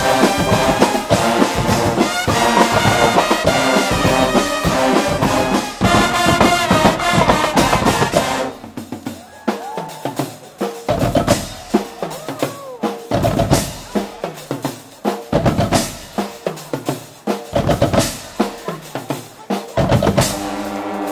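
Guggenmusik band of brass and drums playing loudly together. About eight and a half seconds in, the brass falls away and the drums play a break of snare and bass-drum hits. Near the end the full band comes back in.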